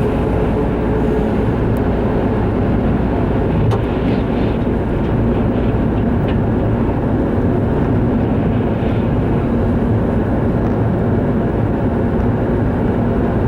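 Strong storm wind blowing, a steady low roar with the wind buffeting the microphone, in gusts the recorder puts at maybe 50 mph.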